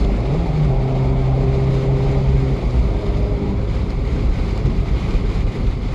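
Abarth 595C's 1.4-litre turbocharged four-cylinder running through a Record Monza exhaust at steady cruising speed, heard from inside the car: a low exhaust drone with a held low hum for the first couple of seconds, over wind and road noise.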